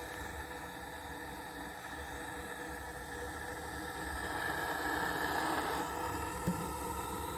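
Steady engine drone that grows slowly louder over the first few seconds, with one short click about six and a half seconds in.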